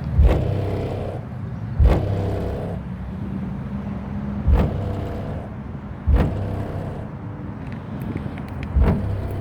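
Two 12-inch car subwoofers in the trunk playing a bass-heavy beat, with hard bass hits in a repeating pattern over deep sustained bass notes and the trunk rattling a little.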